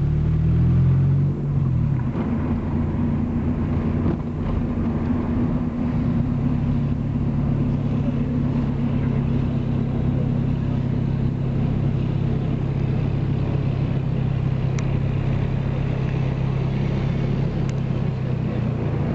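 Car engine and road noise heard from inside a moving car: the engine's pitch shifts in the first second or so, then settles into a steady low hum over the rumble of the tyres.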